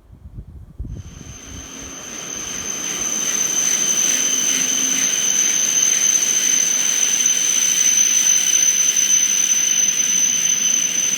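Joetsu Shinkansen train running through the station, a rushing noise with a steady high whine that builds over about three seconds and then holds loud.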